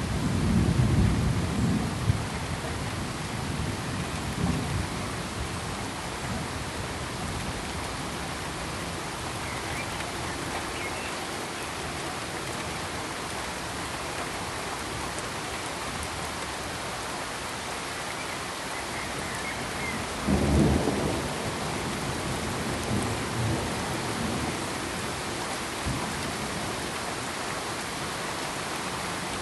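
Steady, even hiss of rain with low rolling rumbles of thunder: one at the start, a smaller one a few seconds in, and the strongest about twenty seconds in.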